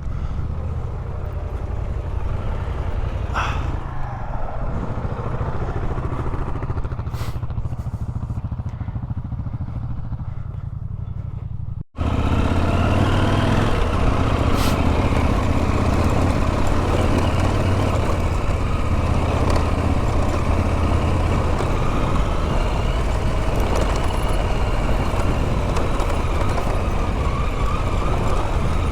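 Motorcycle engine running steadily on the move, with wind rush. About twelve seconds in there is an abrupt cut, after which the engine and wind are louder.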